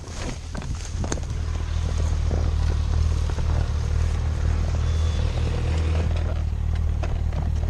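An engine idling steadily: a low, even hum. A few light knocks come in the first second or so.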